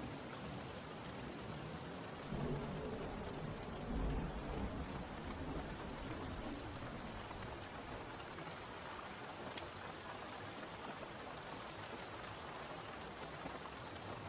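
Steady rain falling, with low rumbles of thunder swelling up about two and four seconds in.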